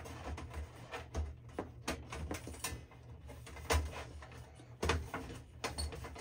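Scattered clicks, taps and knocks of a battery charger's parts and screws being handled during reassembly, at an uneven pace.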